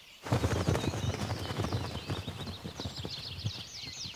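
Rapid clicking and tapping that starts abruptly about a third of a second in, with a small pet bird chirping repeatedly in quick, high, downward-sliding notes from about halfway through.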